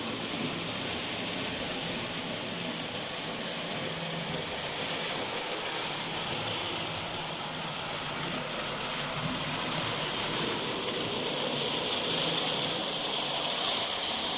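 Märklin HO model locomotive running on metal M-Track: a steady whir of the small electric motor with wheels rattling over the rails, growing a little louder near the end.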